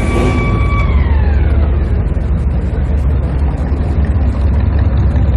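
A siren holding a steady tone, then falling in pitch and fading about a second in, over a loud, steady low rumble like a running engine.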